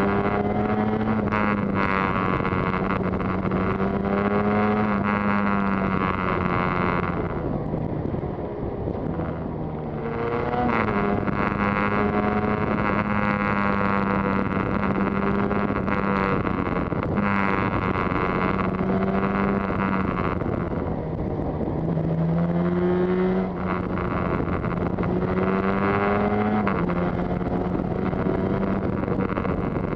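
Yamaha TZR250's two-stroke twin engine running on the move, its note rising and then dropping back several times as it shifts up through the gears. It eases off briefly about a third of the way through. Wind noise on the microphone.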